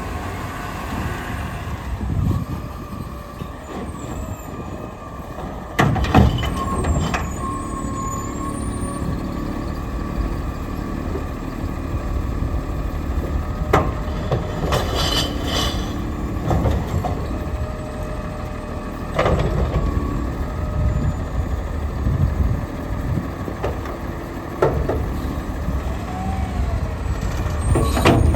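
Diesel garbage truck with a front-loader arm and cart-tipping can, running on its route with a steady engine rumble. Several sharp bangs come a few seconds apart, and there is a short burst of hiss around the middle.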